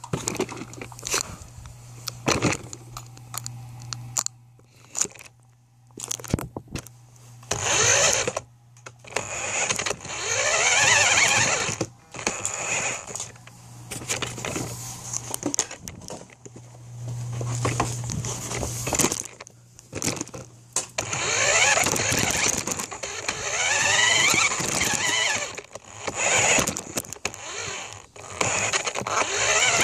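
Electric motor and gears of an RC toy truck whining in bursts, the pitch rising and falling as it speeds up and slows down, with short stops between runs.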